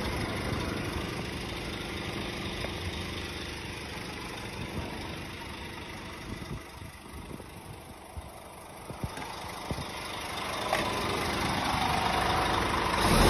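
Scania R490 tractor unit's 13-litre straight-six diesel engine idling steadily, growing louder over the last few seconds, with a few light knocks in the middle.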